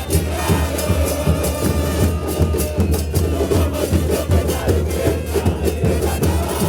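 A football supporters' drum band in the stands: bass drums and cymbals keeping a steady, loud beat, with the crowd singing along.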